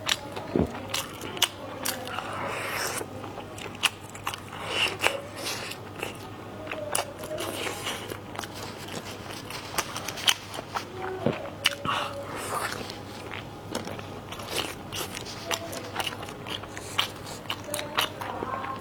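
Close-up chewing and biting of food, with many short crunchy bites at an irregular pace.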